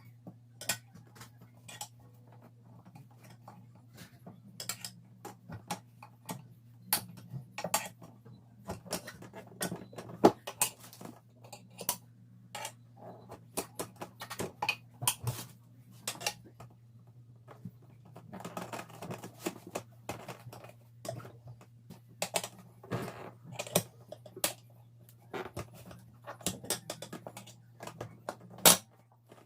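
Metal tools and wheel parts clinking and knocking irregularly during a car tyre change, over a steady low hum, with the sharpest clanks about ten seconds in and just before the end.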